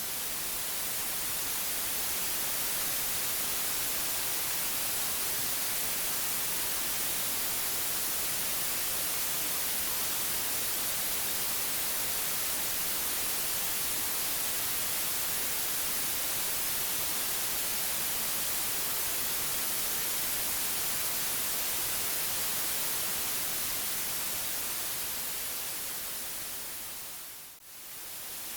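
Steady white noise, an even hiss that is strongest in the high end. It dips away briefly about a second before the end and comes straight back.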